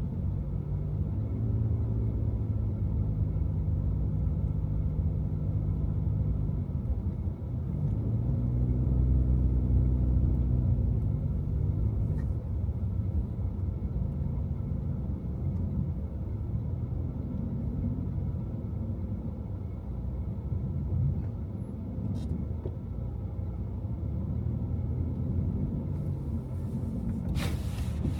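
Car driving on snowy city streets: a steady low engine and road rumble, the engine note rising and falling once as it speeds up and eases off. A short burst of hiss comes near the end.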